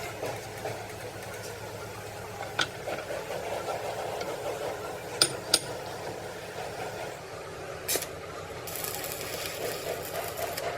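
Sharp metal-on-metal strikes, a few seconds apart, over a steady machine hum. Two ringing strikes come close together about halfway through, and a high hiss starts near the end.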